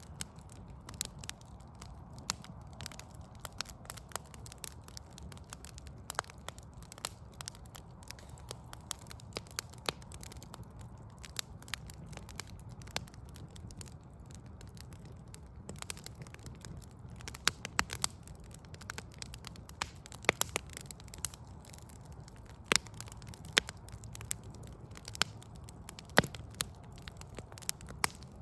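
Wood fire crackling, with irregular sharp pops and snaps that come thicker and louder in the second half, over a low steady rumble.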